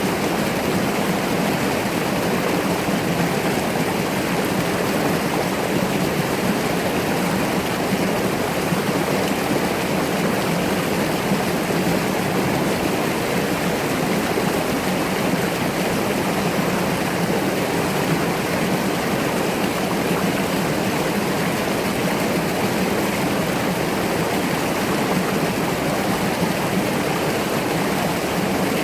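Mountain stream rushing and burbling steadily over rocks, a constant even flow of water.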